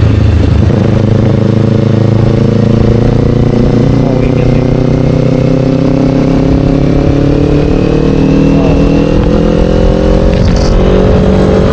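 Kawasaki Ninja 500's parallel-twin engine running through an Akrapovic slip-on exhaust under steady throttle. Its pitch climbs slowly as the motorcycle gains speed.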